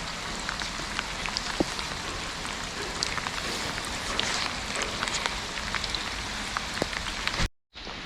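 Steady rain falling, with scattered single drops ticking sharply close by. The sound cuts out completely for a moment near the end, then the rain carries on.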